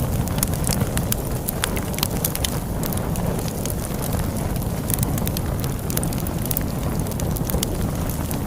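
Wood fire crackling with frequent sharp, irregular pops, over a steady low rumble of storm wind.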